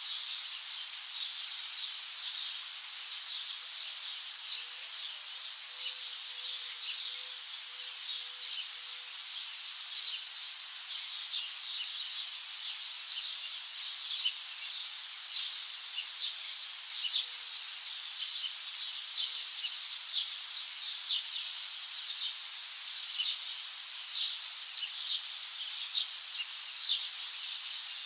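A dense chorus of many small birds chirping and twittering rapidly over a steady high hiss.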